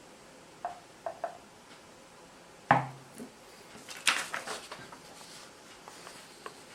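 A few light clicks, then a sharp knock with a short low ring about three seconds in, followed a second later by a quick burst of clattering, as of hard objects being handled and set down.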